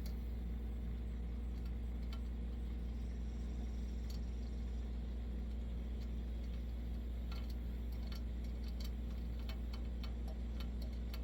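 Scattered small clicks and ticks of metal stove parts and hand tools being handled, more of them near the end, over a steady low background hum.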